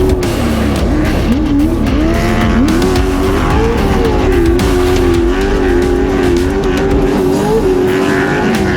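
Off-road race truck's engine running hard under load, its pitch dropping about a second in, climbing again near three seconds, then holding high and wavering as the throttle works.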